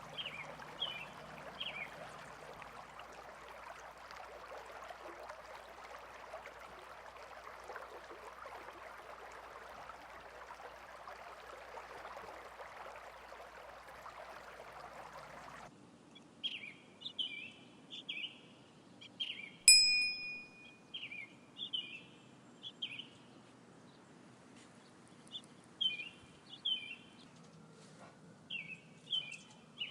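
Small birds chirping in short repeated calls. For the first half they sit over a steady rushing noise like running water, which cuts off suddenly; after that the chirps come more often, with a single bell-like ding near the middle.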